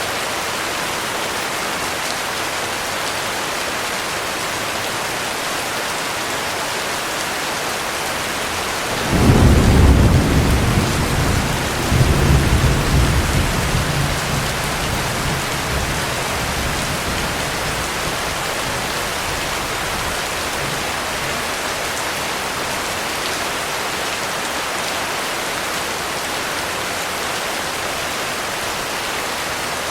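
Thunderstorm: heavy rain falls in a steady hiss. About nine seconds in, a clap of thunder breaks into a deep rolling rumble. It swells again a couple of seconds later, then fades away over several seconds while the rain keeps on.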